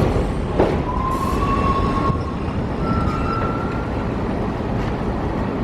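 Elevated subway train running along the track with a steady rumble and a knock about half a second in, and two high tones about a second long each, the second a little higher.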